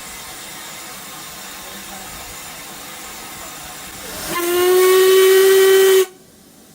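Steam locomotive hissing steadily, then its whistle sounding one long note about four seconds in, held for under two seconds before cutting off suddenly.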